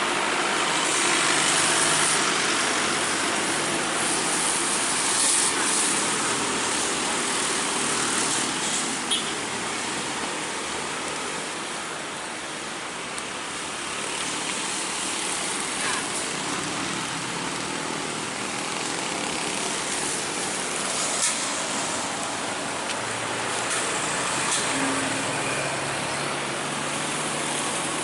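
Road traffic: vehicle engines running with a steady wash of engine and tyre noise, and a few brief sharp ticks.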